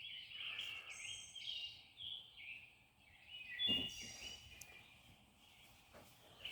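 Songbirds singing: repeated high chirping phrases. A short thump about three and a half seconds in.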